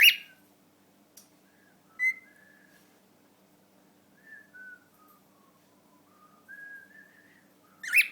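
Male cockatiel whistling a tune: thin, pure notes that step down in pitch and then climb back up, his attempt at a learned song during courtship. A loud, sharp call comes at the start and another near the end.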